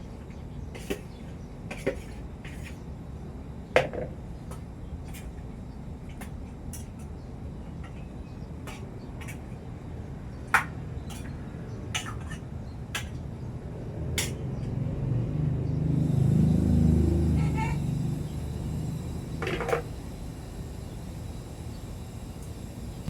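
Irregular clicks and knocks of kitchen utensils and dishes being handled during cooking, a few of them sharper. A low rumble swells and fades about two-thirds of the way through.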